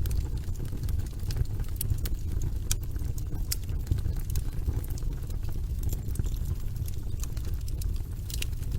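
Log fire burning in a fireplace: a steady low rumble of flames with irregular sharp crackles and pops scattered through it.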